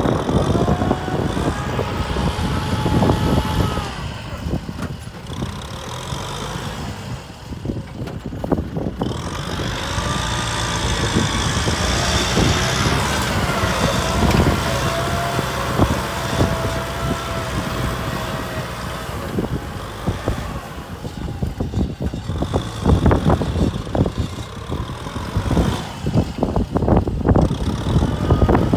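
Kubota M6040 tractor's four-cylinder diesel engine running under load, its pitch rising and falling, with rattling and knocking that grows in the last part.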